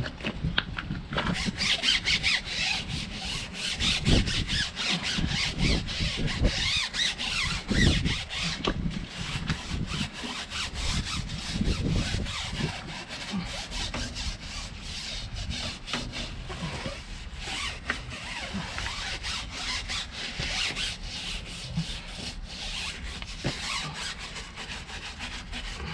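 Truck tyre rubber being scrubbed hard with Jif cream cleaner: a continuous rasping rub of many quick back-and-forth strokes.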